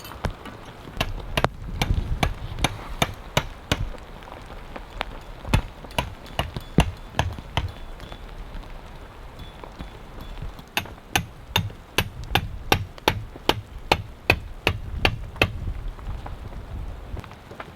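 Steady rain, with runs of sharp knocks about three a second and a pause of a few seconds in the middle.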